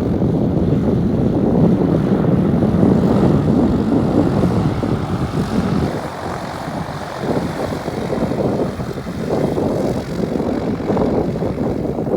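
Cessna TR182 Turbo Skylane RG's turbocharged piston engine and propeller running at high power for a short-field takeoff. The sound is loud and steady at first, drops briefly about six seconds in, then returns weaker and uneven.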